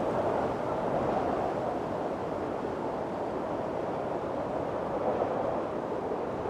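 Strong wind blowing steadily in a windstorm, a dense rushing noise that eases a little after a gust just before and then holds level.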